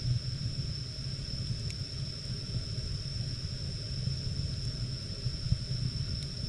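Firewood burning in the firebox of a wood-fired bath: a steady low rumble of the fire with a few faint crackles and one sharper pop about five seconds in. A steady high-pitched tone runs underneath.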